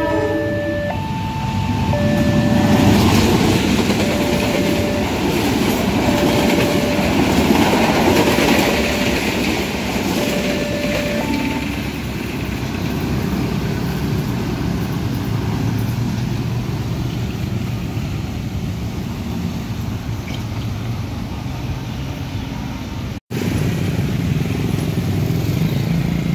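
A train passes over a level crossing from about two seconds in until about eleven seconds, its wheels clattering, while the crossing's electronic warning alarm sounds over and over in two alternating pitches. The alarm stops around eleven seconds, leaving motorcycle engines and road traffic as the barrier lifts. A short dropout comes near the end.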